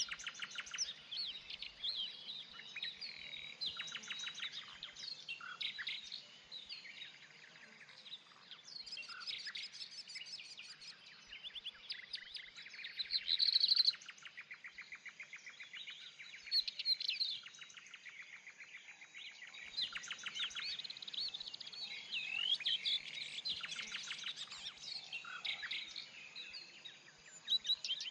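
Several songbirds singing and chirping together, with overlapping trills and whistled phrases; one bird gives a loud rapid trill about halfway through.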